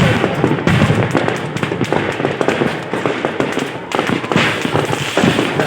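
Fireworks going off in a dense, rapid barrage of bangs and crackling, with a brief lull just before the end.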